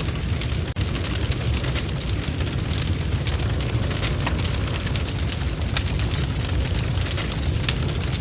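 Bonfire crackling: frequent irregular snaps and pops over a steady low rumble of flames, cutting out for an instant a little under a second in.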